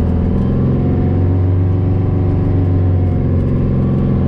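Peterbilt 359 dump truck's Detroit diesel engine running steadily under load, its pitch holding nearly even.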